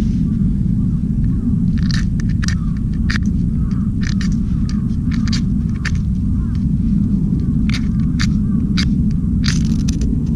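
Fire-starter (ferro/magnesium) rod scraped with a striker in about a dozen short, irregular strokes from about two seconds in, throwing sparks onto hemp tinder to light it. Over a steady low rumble.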